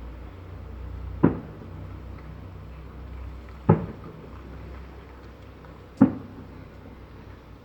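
Festive salute firework shells bursting in the sky: three booms about two and a half seconds apart, over a low steady rumble.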